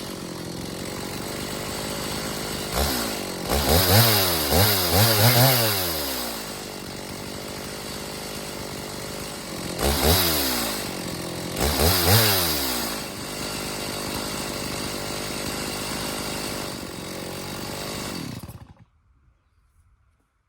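Chainsaw running in an Alaskan chainsaw mill, revving up and down in two spells between steadier stretches, then shut off near the end.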